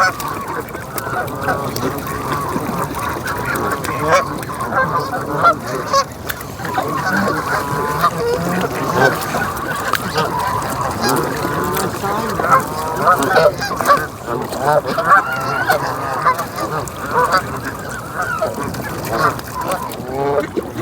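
A large flock of Canada geese honking without a break, many calls overlapping.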